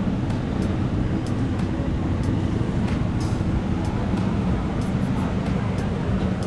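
Steady low background din of a busy street market, with a few faint clicks.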